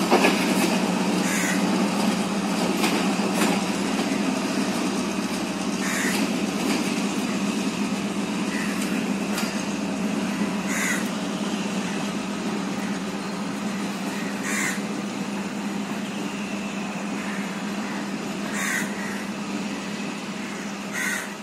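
Departing passenger train hauled by a Class M7 locomotive with a GM 8-645E two-stroke diesel: a steady engine drone that slowly fades as the train draws away. Crows caw now and then, about ten times.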